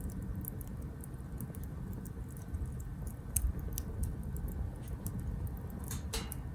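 Wood fire crackling in a small B6 camp grill: irregular sharp snaps and pops over a low rumble, with a brief louder flurry of crackling near the end.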